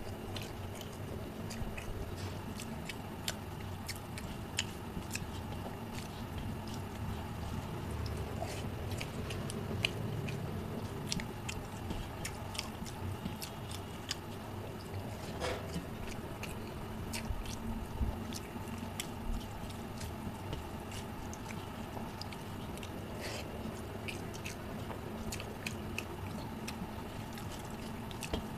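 Close-up eating sounds: chewing and lip smacking with wet squishes as rice and curry are mixed and eaten by hand, with many small clicks throughout.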